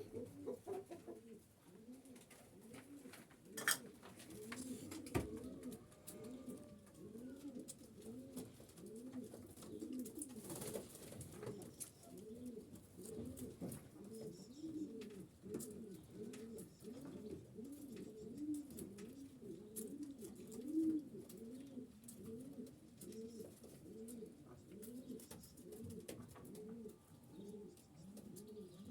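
Several domestic pigeons cooing without pause, their low, rising-and-falling coos overlapping. A few sharp knocks stand out, about four, five and eleven seconds in.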